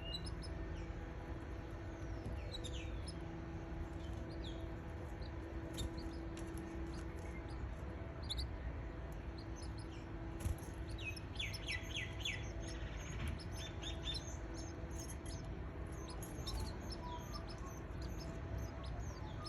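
Canaries chirping: scattered short high chirps, with a quick run of four or five downward-sweeping notes about halfway through, over a steady low hum.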